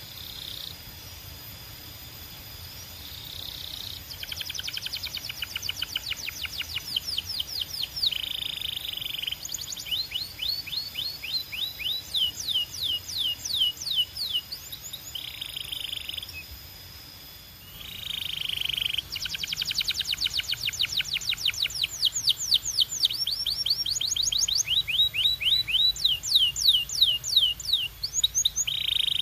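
Belgian canary singing in long rapid trills of repeated sweeping notes, the rolls changing speed and pitch from phrase to phrase. The song starts after a few quiet seconds and breaks off briefly about two-thirds through before a louder run.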